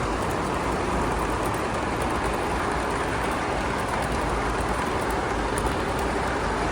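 Steady, even din of a busy exhibition hall, with model trains running on a high-rail layout.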